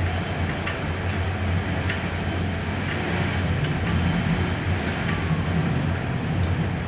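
Typhoon wind and rain making a steady low rumble, with a few scattered sharp ticks.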